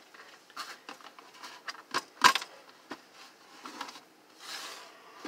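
Small clicks and clattering knocks of screws, a screwdriver and plastic heater housing being handled, with one sharp knock a little over two seconds in and a brief scraping rustle near the end.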